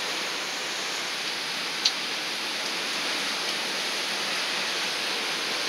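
Steady hiss of hurricane rain and wind, with one small click about two seconds in.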